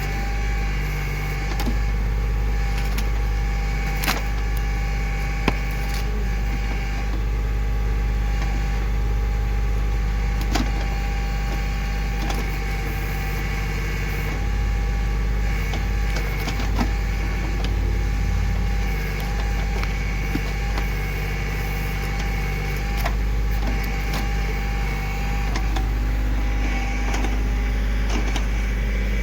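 Kioti CK2610 compact tractor's three-cylinder diesel running steadily while working a backhoe, with sharp cracks and knocks a few seconds apart.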